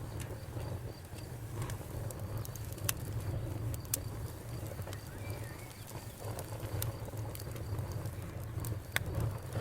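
Wood fire crackling: sharp pops at irregular intervals, a few louder ones, over a steady low rumble of burning.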